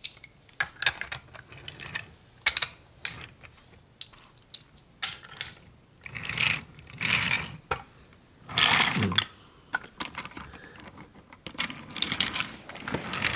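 Toy train and track clattering: irregular sharp clicks and knocks, with a couple of longer scraping rustles about halfway through.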